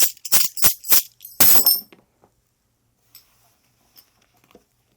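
Hand-held metal jingles shaken in a quick, even rhythm, about three or four shakes a second, ending about a second and a half in with one longer shake whose bright ringing dies away; after that only a few faint clicks.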